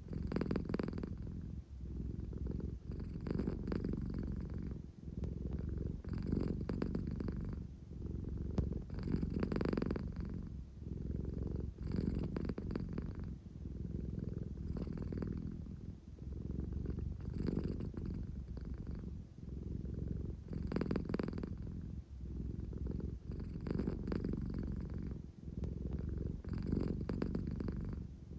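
American Shorthair cat purring steadily, a low rumble that swells and eases in a regular cycle about every two and a half to three seconds.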